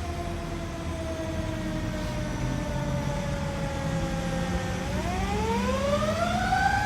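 A fire engine's mechanical siren coasting down slowly in pitch, then wound back up near the end, over the rumble of the engine.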